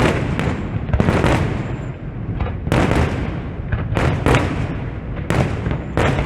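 Aerial fireworks display bursting close by: an irregular run of sharp booms and cracks, several a second at times, over a continuous rumble of further bursts.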